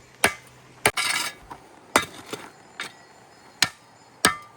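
Hammer blows: five hard, unevenly spaced strikes, some with a brief metallic ring, and a short scraping noise about a second in.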